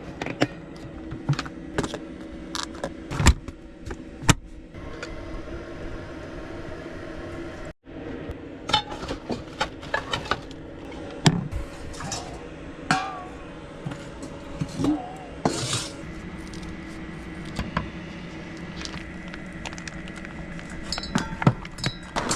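Dishes and utensils clinking and knocking in scattered short clatters over a steady low hum.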